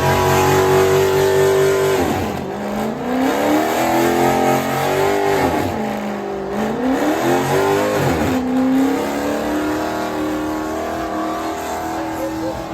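Car engine held at high revs during a burnout, its pitch dropping and climbing back three times, with a steady hiss of spinning tyres beneath.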